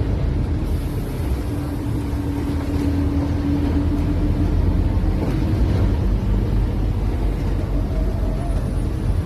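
Scania OmniCity bus on the move: a steady engine and road rumble, with a whine that comes in about a second and a half in and holds for about two seconds.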